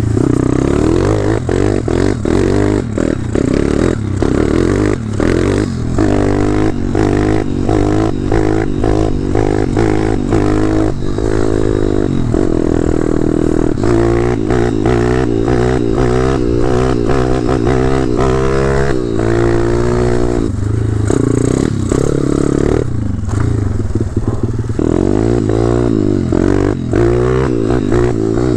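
Pitster Pro X5 pit bike with a swapped-in 190cc single-cylinder four-stroke engine, running under riding load. The revs climb and drop back again and again as the rider accelerates, shifts and rolls off the throttle, with frequent short clatters.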